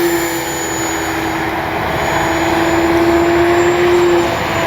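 Electric RC airplane's brushless motor and propeller running steadily, a droning tone over a rushing noise with a thin high whine; the main tone drops out about four seconds in.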